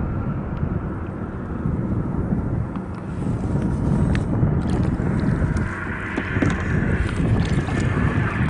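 Wind rumbling on the microphone while out on the water in a kayak, with a light swishing of water coming in about two thirds of the way through.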